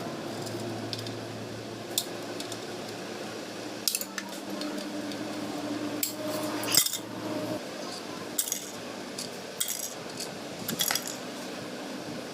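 Metal pieces clinking and clattering now and then, about seven separate knocks with a sharp one near the middle, over a low steady hum.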